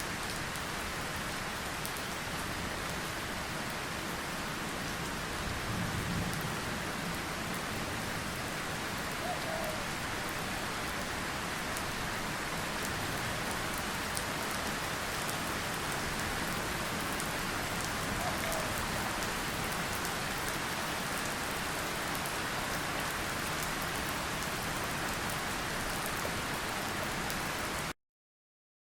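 Steady rain falling on a surface, a dense hiss with fine drop patter, with a brief low rumble about six seconds in. The sound cuts off suddenly near the end.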